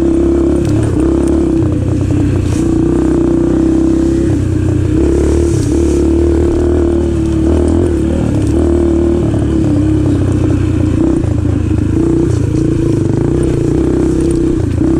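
Yamaha TT-R125 dirt bike's single-cylinder four-stroke engine running loud and steady, its note dipping and picking up again every second or so as the throttle is worked. A few sharp clicks and clatter sound over it.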